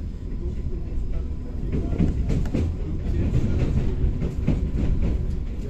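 Interior running noise of an SKM suburban electric multiple unit: a steady low rumble with wheels clacking over rail joints. From about two seconds in it grows louder and busier as another train passes close alongside.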